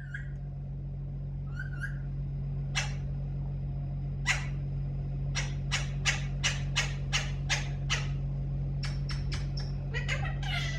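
Parrot calling in short, sharp squawks: a few scattered ones, then a quick run of about three a second for several seconds, over a steady low hum.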